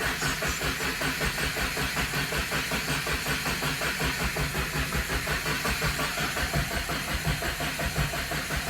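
Subaru WRX engine being cranked over on the starter without firing, a steady rhythmic churn of about four pulses a second, to prime it before starting after it has sat for about a week.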